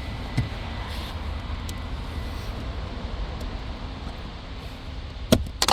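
A few sharp plastic clicks near the end as a dummy switch blank is pried out of the Toyota Tacoma's dash switch panel, over a steady low rumble.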